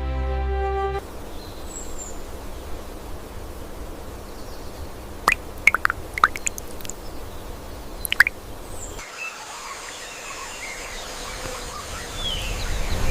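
Outdoor nature ambience with a handful of short, sharp bird calls around the middle. Background music cuts off about a second in.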